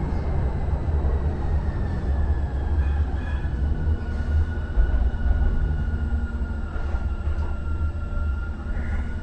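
Muni Metro light-rail car riding the rails, heard from inside: a steady low rumble with a thin whine that slowly falls in pitch.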